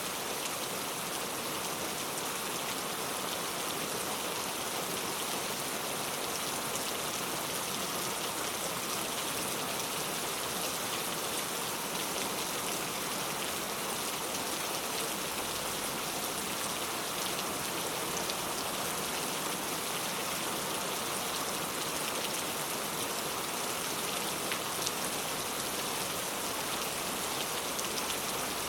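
Heavy rain falling steadily, an even hiss with many small drop impacts.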